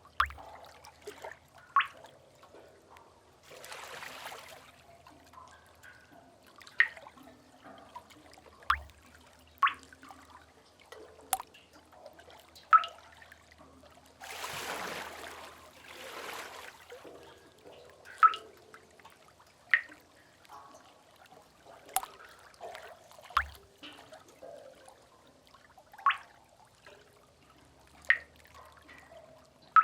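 Sea-cave ambience: water drops plinking into pools at irregular intervals, every second or two, with two swells of distant waves washing in, one about four seconds in and a longer one around fifteen seconds in.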